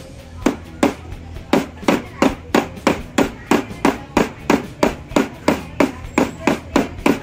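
Steady rhythmic hand-hammer blows, about three a second, on steel wire resting on a steel block: a fishing hook blank being hammered cold, without heating, to shape it. Each blow gives a sharp metallic clink.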